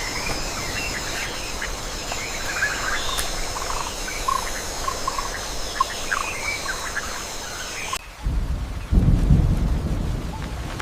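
Rainforest ambience: a steady hiss with a high, even hum and scattered short chirps, then about eight seconds in it cuts to a loud, deep rumble of thunder that slowly dies away.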